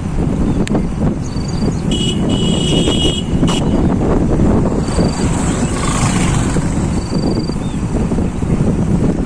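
Motorcycle running along with wind rushing over the microphone, a steady loud rumble. Short high chirps come every second or two above it, with a brief higher tone about two seconds in.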